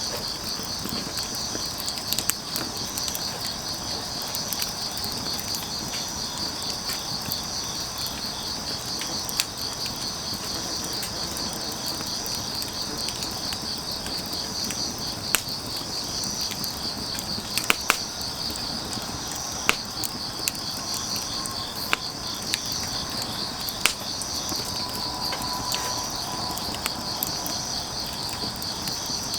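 Crickets and other grass insects chirring steadily in a fast, pulsing high trill, over a soft hiss, with occasional sharp pops and crackles from burning firewood.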